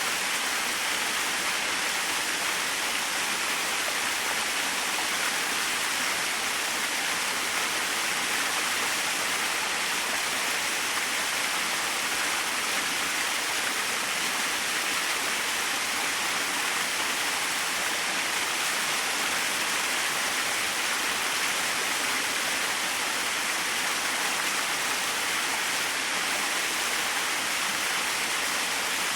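Small waterfall: water falling and splashing in an even, unbroken hiss, mostly high and bright with little low rumble.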